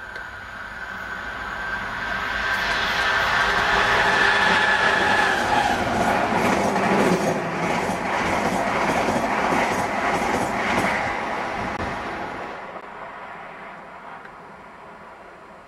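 Diesel locomotive-hauled passenger train passing at speed: the engine grows louder as it approaches. The coaches then rush by with a rapid clatter of wheels over rail joints, fading away after about twelve seconds.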